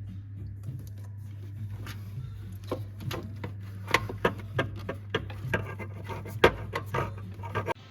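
Irregular sharp clicks and knocks, coming more often in the second half, over a steady low hum.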